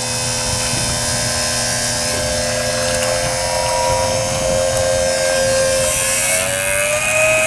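Small electric water pump running steadily with a constant hum while pumping water from a drum through a hose; its pitch rises slightly about six seconds in.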